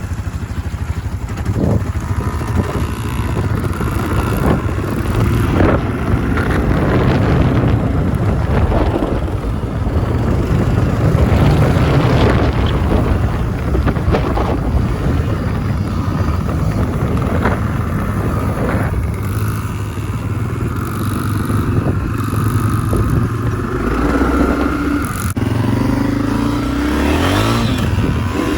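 Small 50cc kids' dirt bike engine running as it is ridden, its pitch rising and falling with the throttle and a few quick revs near the end.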